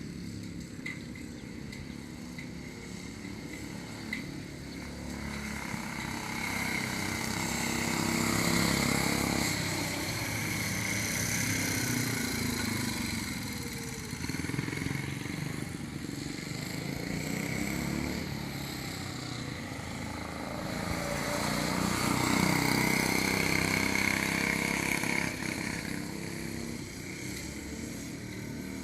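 Small gasoline engines of a vintage minibike and a go-kart, 5 hp and 3.5 hp, running at full throttle in a drag race. Their pitch rises and falls, and the sound gets louder around a third of the way in and again about three quarters of the way through.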